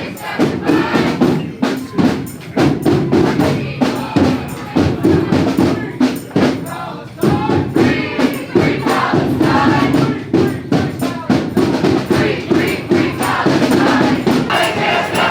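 Drums beaten in a steady rhythm under a large crowd chanting together, the voices swelling near the end.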